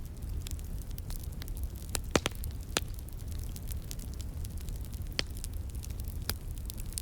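Wood fire crackling: scattered sharp pops and ticks, a few louder snaps about two, three, five and six seconds in, over a steady low rumble from a flowing stream.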